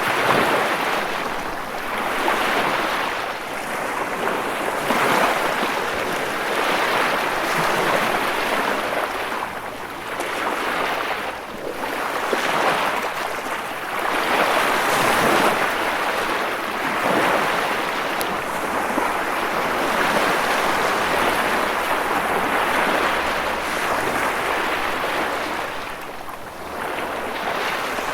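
Ocean surf: waves breaking and washing in a continuous hiss that swells and eases every few seconds.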